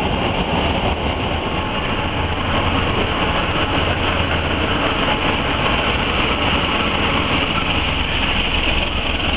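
Trains running past a station platform: a steady rumble of wheels and engine noise, with a diesel locomotive passing near the end.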